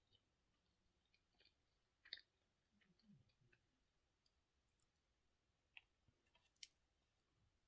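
Near silence with a few faint, scattered clicks and soft mouth sounds of someone eating quietly.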